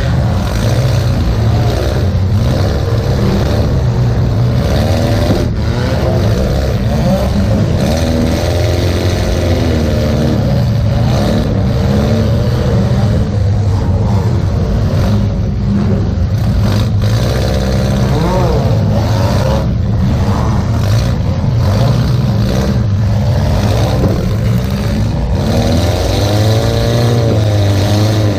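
Demolition derby car's engine running hard, its pitch rising and falling continuously as the throttle is worked, with short knocks and bangs now and then.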